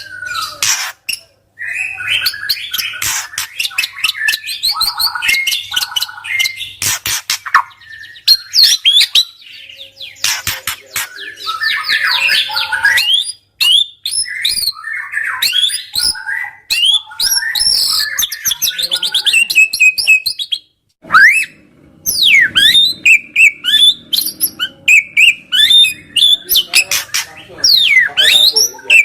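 A white-rumped shama (murai batu) in full, aggressive 'nembak' song: a loud, varied stream of whistles, rising and falling sweeps and fast chattering runs, broken by two short pauses.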